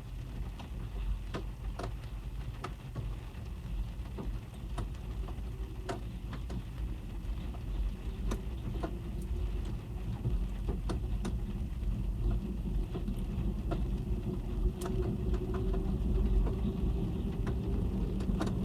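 Raindrops tapping irregularly on a car's roof and glass, heard from inside the cabin over a low rumble. A faint hum builds and grows louder through the second half.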